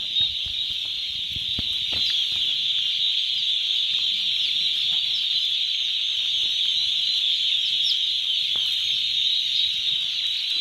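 A brood of day-old turkey poults peeping all at once, a dense, unbroken chorus of high peeps.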